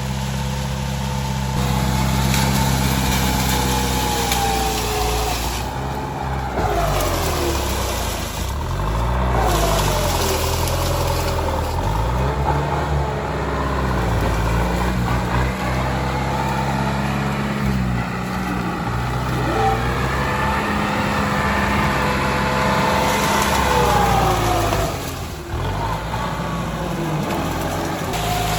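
Tractor engine running hard under load, its speed sagging and picking up again several times, with a brief drop near the end.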